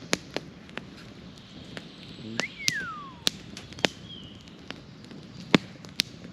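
Wood campfire crackling with sharp, irregular pops, the loudest about five and a half seconds in. A single falling whistle-like tone sounds about two and a half seconds in.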